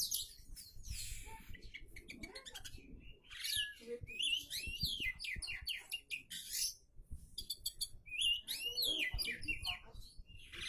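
Oriental magpie-robin (kacer) in full song, delivering a fast, varied run of short phrases: sweeping whistles, trills and rapid clicking rattles, with brief pauses between phrases. The song is packed with imitated notes of other birds, the mark of a bird in top singing form.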